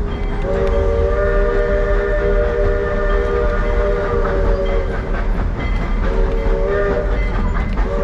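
Steam locomotive whistle sounding a chord of several notes: one long blast lasting about four seconds, then a short one, with the next blast starting near the end. Underneath is the steady rumble and rail noise of the moving train heard from a passenger car.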